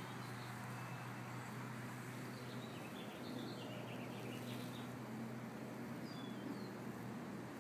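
Outdoor ambience: a steady low hum with faint bird chirps in the background, a short cluster of them a few seconds in and another brief call near the end.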